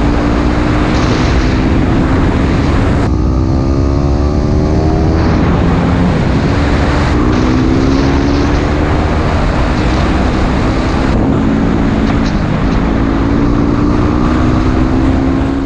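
Yamaha WR dual-sport motorcycle's single-cylinder engine pulling hard under way. Its note climbs and drops back several times as it works through the gears, under heavy wind rush on the microphone.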